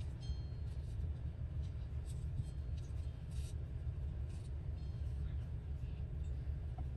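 Steady low background hum with faint, scattered rustles of paper scraps being handled and laid down.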